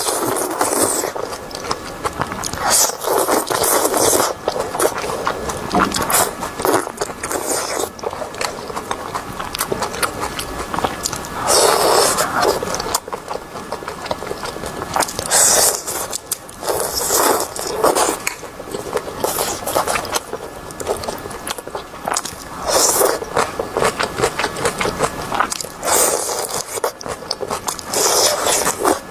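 Close-miked eating sounds of marinated seafood being chewed, with loud crackling, scraping bursts every couple of seconds.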